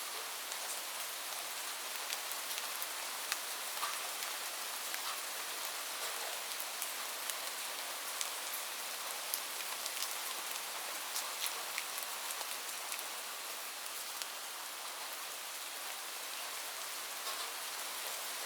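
Steady rain with a dense hiss and many scattered individual drops ticking sharply on a hard surface.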